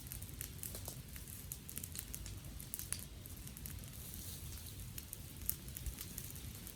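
Fire of dry garden sticks crackling, with many small sharp pops at irregular intervals over a steady low rumble.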